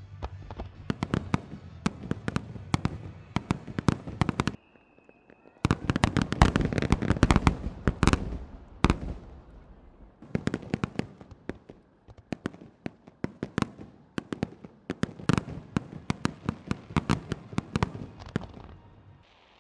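Japanese starmine fireworks: rapid barrages of aerial shells bursting in quick, sharp bangs, densest and loudest from about six to nine seconds in. The bangs break off for about a second near the middle.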